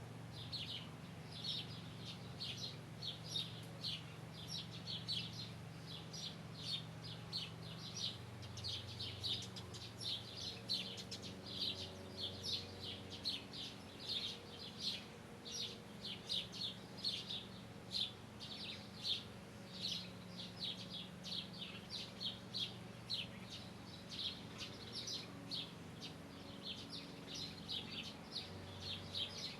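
Small birds chirping continuously, short high chirps coming a few times a second, over a faint low steady hum.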